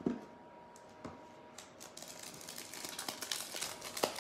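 A trading card pack's plastic wrapper being handled and torn open: a soft thump at the start, then crinkling and crackling that grows denser over the last two seconds.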